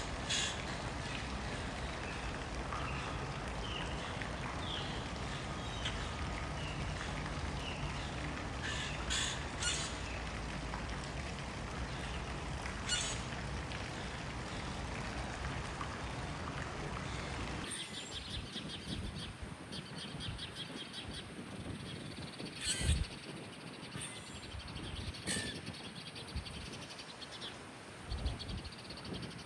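Wild birds chirping and calling over a steady low background rumble. About two-thirds of the way through, the background drops away abruptly and a fast repeated trill takes over.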